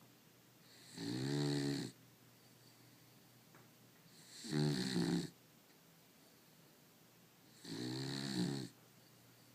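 Beagle snoring loudly: three drawn-out snores, each about a second long, coming roughly every three and a half seconds with quiet in between.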